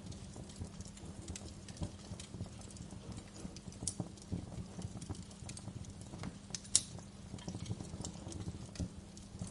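Wood fire crackling in a fireplace: irregular sharp pops and snaps over a steady low rumble of flames, with one louder pop a little before the seven-second mark.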